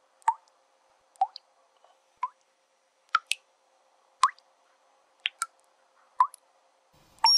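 Water dripping from a tap: single sharp drops falling at a steady pace of about one a second, each a short plop with a quick upward flick in pitch.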